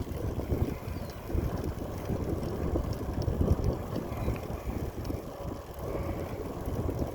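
Wind buffeting the microphone of a moving rider: an uneven, gusty low rumble with a few faint ticks.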